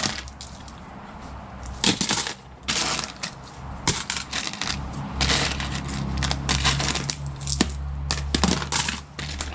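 Coins and small scrap-metal finds clinking against each other as they are picked through and sorted by hand, in sharp, irregular clinks. A steady low hum comes in about halfway.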